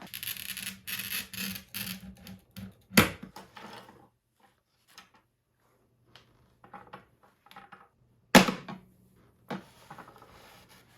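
Freshly cut pieces of scanner glass being handled on a work surface: scraping and rubbing, scattered small clicks, and two sharp knocks, about three seconds in and after about eight seconds.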